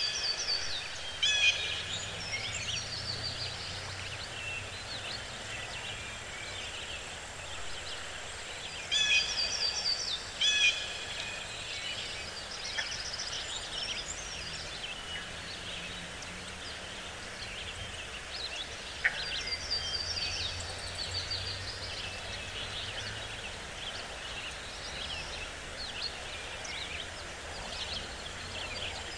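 Birds calling in a forest: bursts of harsh, chattering calls near the start, about nine to eleven seconds in, and again about twenty seconds in, over a steady low rumble.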